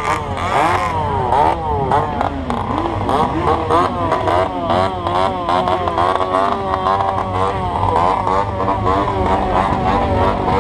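Several motorcycle engines revving over and over, their pitch rising and falling quickly and overlapping, over a steady low engine rumble.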